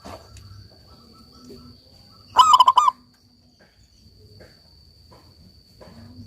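Zebra dove (perkutut) giving a brief loud burst of rapid cooing notes about two and a half seconds in, over a steady high-pitched insect drone.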